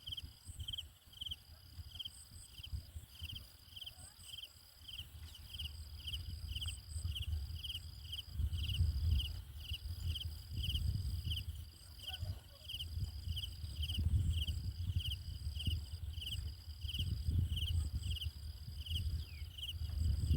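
Insects calling steadily: a rhythmic chirp about twice a second and a high, continuous buzz with brief breaks. Underneath, an irregular low rumbling that swells and fades, louder in the second half.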